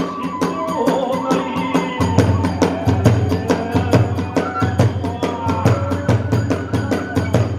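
Hiroshima kagura hayashi: a bamboo flute (fue) melody over fast, steady beats of drums and small hand cymbals.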